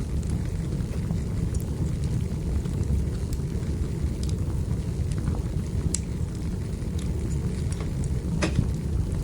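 Wood fire in a fireplace crackling: a steady low rumble of burning with scattered sharp pops, one louder pop near the end.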